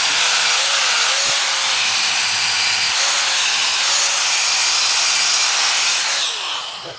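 Handheld electric rust-removal tool running steadily as it abrades rust off the anvil's metal surface. Its motor winds down with a falling tone near the end.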